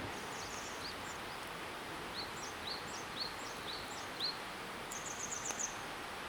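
A small songbird chirping, a string of short high down-slurred notes followed by a quick rapid trill near the end, over a steady rushing noise of river water and wind.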